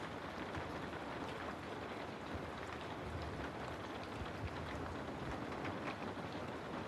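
Steady rain ambience: an even hiss of falling rain with many small drop ticks scattered through it.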